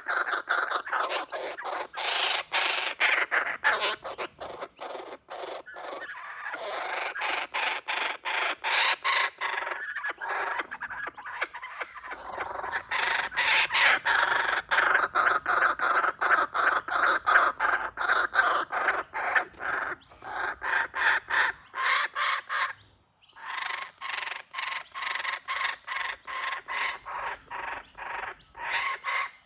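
Laughing kookaburras calling in a long, rapid chorus of repeated notes, with one short break about three-quarters of the way through.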